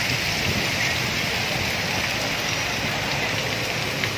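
Heavy monsoon rain pouring down steadily: a dense, even hiss of rain on the street and surfaces.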